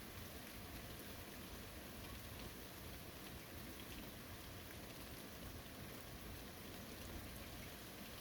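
Steady, faint rain, with scattered drops pattering on surfaces.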